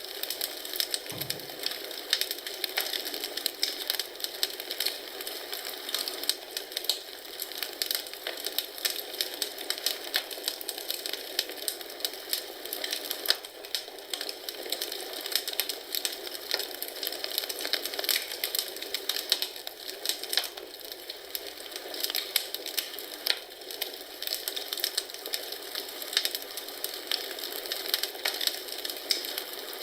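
Wood fire in a fireplace crackling: a continuous stream of small pops and snaps over a soft hiss.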